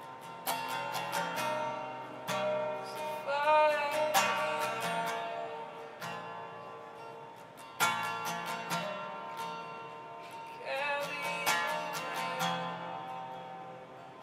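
Acoustic guitar strumming slow chords in a worship song, swelling twice, with a wavering melodic line rising over each swell.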